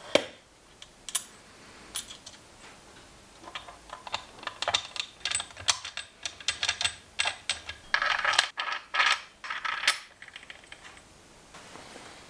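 Small metal parts clicking and clinking against each other and a hard surface, in quick irregular taps that get busier after about three seconds, with a louder run of rattling clinks near the middle.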